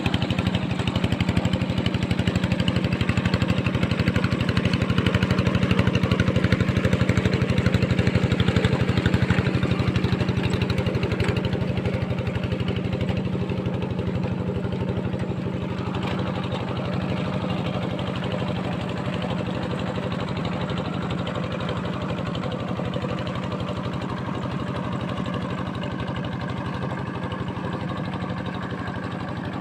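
Diesel tractor engine running steadily, its firing pulses even throughout, growing gradually fainter over the second half.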